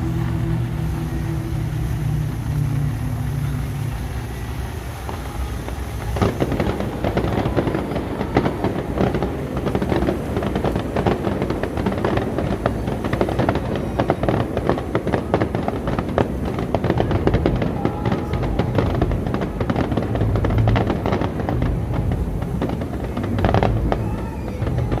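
Fireworks display: from about six seconds in, a dense, unbroken run of crackling bangs and booms, which carries on to the end.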